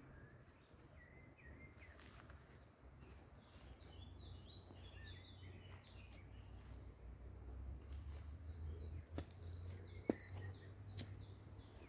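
Faint birdsong, short chirps that come more often toward the end, over a low steady rumble. A few sharp clicks near the end.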